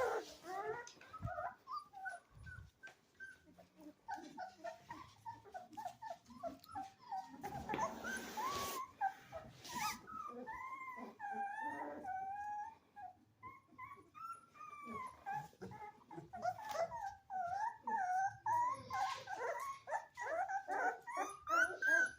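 Several two- to three-week-old Rottweiler puppies whimpering and squealing, many short high cries overlapping, with a short burst of noise about eight seconds in.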